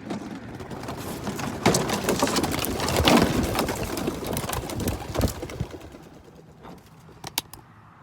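A flock of racing pigeons taking off together, a dense clatter of wingbeats and wing claps. It swells to a peak about three seconds in and then fades as the birds fly off. A couple of sharp claps follow near the end.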